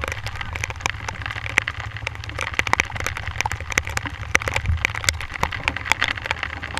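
Heavy rain, with drops striking close to the microphone as quick, irregular ticks over a low, steady rumble.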